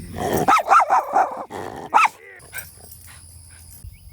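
Dog barking: a quick run of sharp barks in the first two seconds, then it goes quiet.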